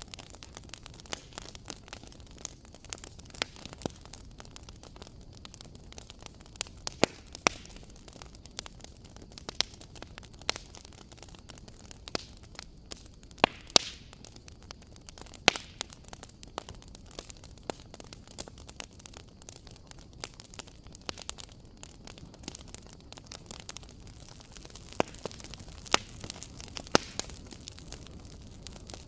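Wood fire crackling in a fireplace: irregular sharp pops and snaps, a few much louder than the rest, over a steady low hiss of the burning.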